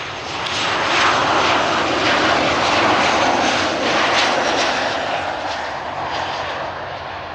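TUI passenger jet coming in to land, its engine noise swelling over the first second, staying strong for a few seconds and then slowly fading as it passes.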